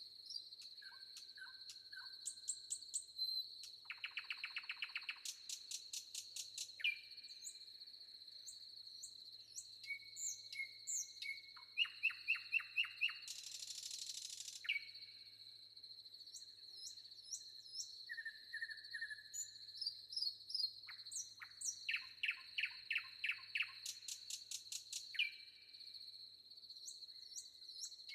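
Forest birds chirping and whistling, with several rapid trills, over a steady high-pitched insect drone.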